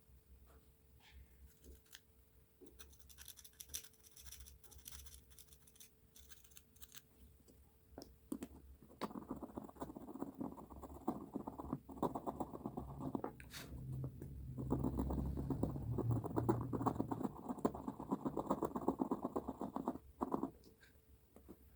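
Small scattered clicks and taps of work on a clock movement. Then two long spells of rapid brush scrubbing on the metal clock parts, as in cleaning during restoration.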